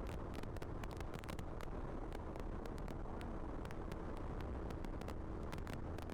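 Motorcycle running steadily, with frequent crackles of wind on the microphone.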